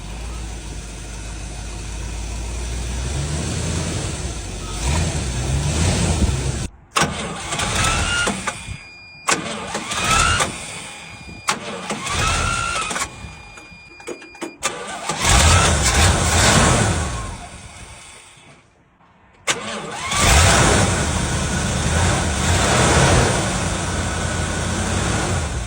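1977 GMC C7000 truck's carbureted gasoline engine running rough and being revved up and down several times, with short breaks between takes. It runs poorly, which the owner puts down to a struggling carburetor and fuel that may be 11-year-old gas from the tank.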